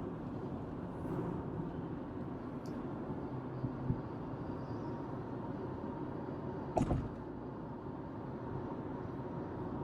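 Steady low road and engine noise inside a car's cabin, with a single sharp knock about seven seconds in.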